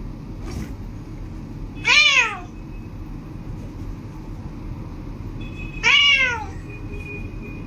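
A cat meowing twice, a few seconds apart, each meow a short call that rises and then falls in pitch.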